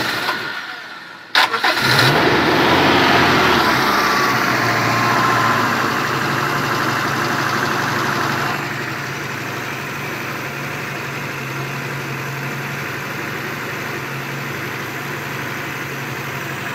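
Daihatsu Espass 1.6-litre four-cylinder petrol engine starting: it catches about a second and a half in and runs at raised revs for several seconds. About eight and a half seconds in it drops to a steady idle. The broken-down van is running again.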